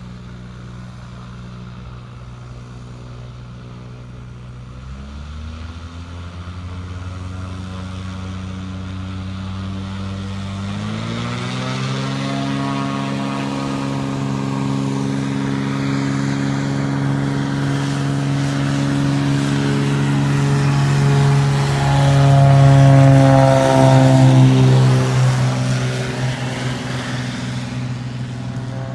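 Cessna 185 floatplane's engine and propeller throttling up for takeoff. The engine note steps up in pitch about five seconds in and again about eleven seconds in, holds at high power and is loudest just past twenty seconds, then eases off a little near the end.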